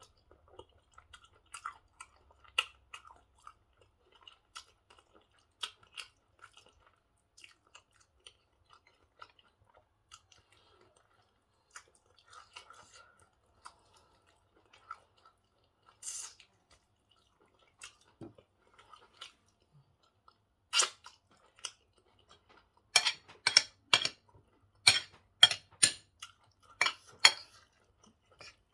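A person chewing a mouthful of pork stew and white rice close to the microphone, with small wet mouth clicks and smacks. About three-quarters of the way through comes a run of louder, sharper clicks.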